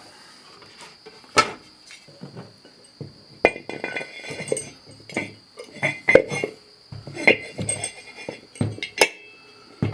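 Steel disc-harrow parts clinking and knocking together as washers, spacers and a disc blade are handled and fitted onto the gang bolt: a string of irregular metallic clinks, several of them ringing briefly.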